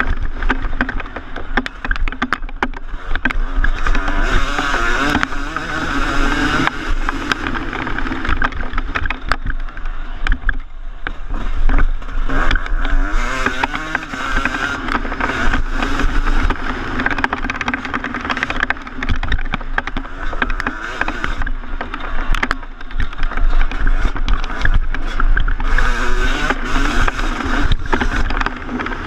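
2014 Yamaha YZ250 two-stroke motocross bike ridden around a track, its engine revving up and falling off again and again through the gears, with knocks from the bike over the bumps.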